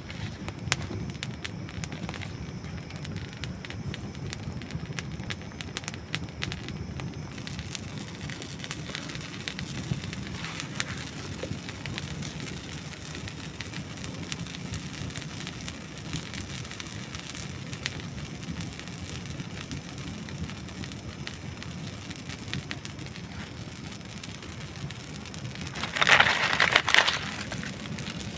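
Campfire of dry wood burning: a steady crackle with scattered sharp pops and snaps. About two seconds before the end, a louder burst of crackling lasts a second or so.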